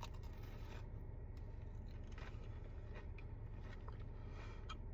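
Faint biting and chewing of a fried toasted-ravioli roll, with a few soft scattered clicks over a low steady background hum.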